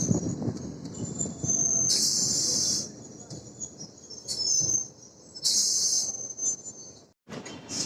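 Suburban electric local train running, its wheels squealing high on the rails over a low rumble. Two louder bursts of screeching come about two seconds and five and a half seconds in.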